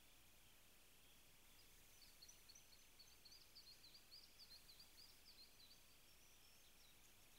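A small songbird singing faintly, a run of quick high chirps lasting about four seconds, over a steady background hiss.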